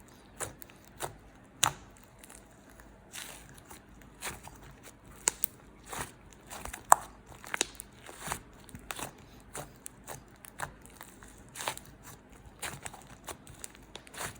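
Yellow slime being pressed and squished by hand, giving irregular sharp clicks and crackles, several a second, with one louder pop about halfway through.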